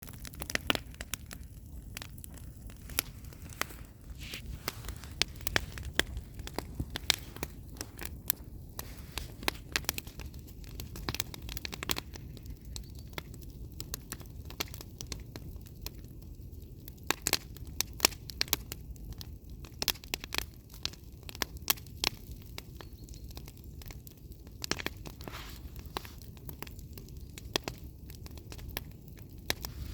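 Campfire burning, its wood crackling with frequent, irregular sharp pops over a low steady rumble.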